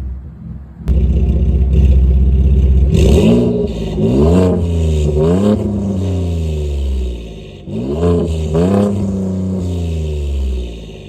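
2018 Ford F150's 3.5-litre EcoBoost twin-turbo V6 running through catless downpipes and a side-exit exhaust. It cuts in abruptly about a second in and is revved in several quick blips, each rising and falling.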